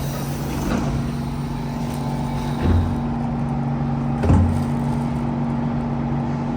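Siemens C651 MRT train heard from on board, its electrical equipment giving a steady two-tone hum, with two dull thumps about two and a half and four seconds in.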